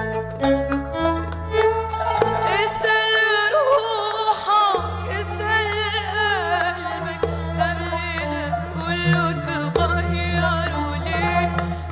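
Arabic music ensemble playing, with a wavering, ornamented melody on bowed strings over long held bass notes.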